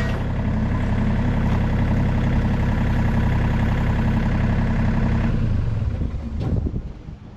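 Engine running steadily with a fast, even firing pulse, then shut off about five seconds in, dying away over about a second.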